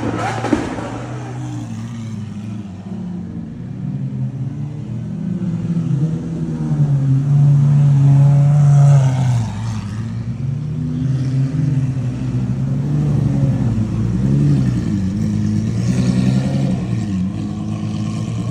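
Lamborghini Aventador SVJ's 6.5-litre naturally aspirated V12 engine running and revving. It climbs to its loudest about eight to nine seconds in, then drops back to a lower note that rises and falls.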